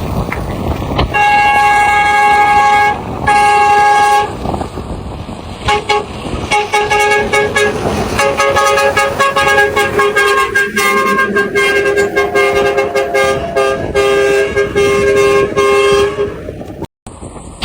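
Basuri V8 multi-trumpet truck horn sounding its chord: two blasts in the first few seconds, then a long run of overlapping horn notes that shift in pitch for about ten seconds.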